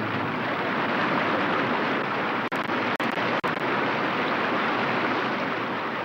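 Steady rush of fast-flowing river water, broken by three very short dropouts about two and a half to three and a half seconds in.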